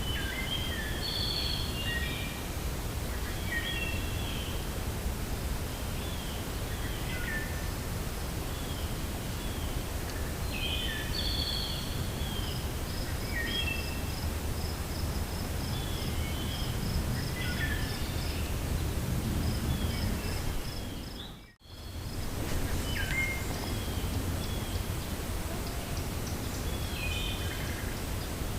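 Steady wind through a forest with several birds chirping in short, repeated phrases, and a fast high-pitched ticking trill through the middle. The whole sound drops out for an instant about three quarters of the way through.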